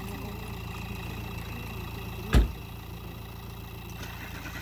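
A steady low rumble like an engine idling, with one sharp thump about two and a half seconds in.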